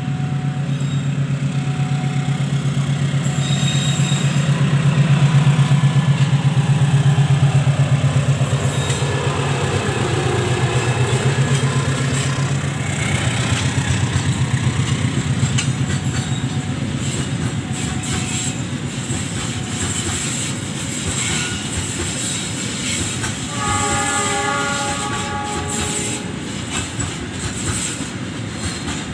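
A GE CM20EMP (CC 206) diesel-electric locomotive passes close, its engine running loud through the first dozen seconds. A long train of flat wagons then rolls by with a steady rumble and the clickety-clack of wheels over the rails. A brief high-pitched tone sounds about 24 s in.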